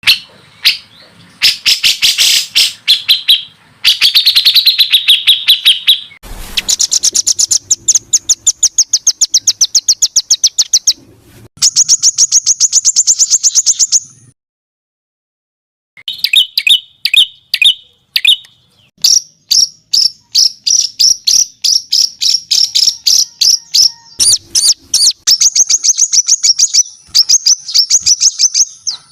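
Songbird singing rapid-fire runs of sharp, high notes, many per second, in bursts of a few seconds, with a silent break about halfway. This is the harsh, dense 'tembakan' style of song used to tutor competition songbirds.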